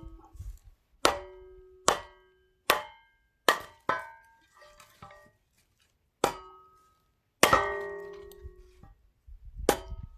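Axe blows splitting firewood: about eight sharp strikes at an uneven pace, each with a short metallic ring, the longest ringing blow about seven and a half seconds in. The piece is knotty and takes repeated blows.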